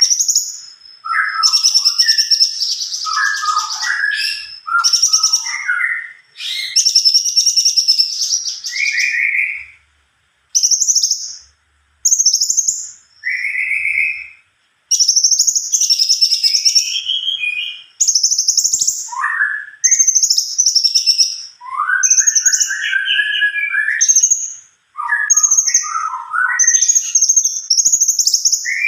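A cungkok songbird singing hard in long, almost continuous runs: high trilling phrases alternate with lower whistled notes, broken only by short pauses.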